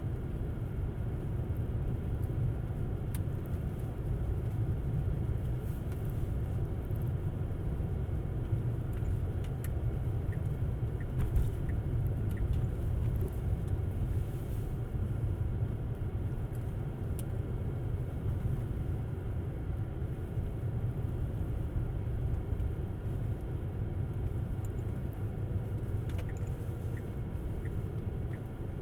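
Tesla Model S electric car driving on a snow-covered road: a steady low rumble of tyre and road noise, with no engine sound.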